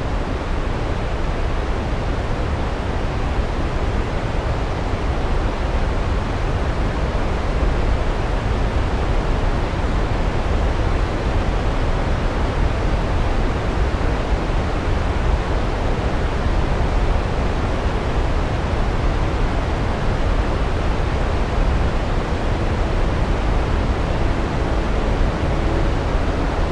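Vøringsfossen waterfall rushing: a loud, unbroken wash of falling water, heaviest in the low rumble.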